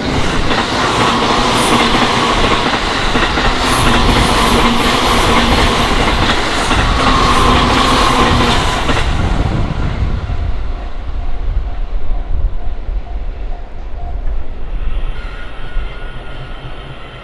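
A JR Chuo Line train passing over a level crossing at close range, loud for about ten seconds with wheel clatter and a rising and falling whine, then trailing away. After it has passed, the crossing's warning bell is heard as a steadily repeating tone.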